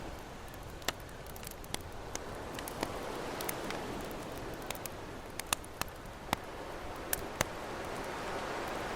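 Campfire crackling, with sharp irregular pops and snaps over the wash of ocean waves, which swells and eases.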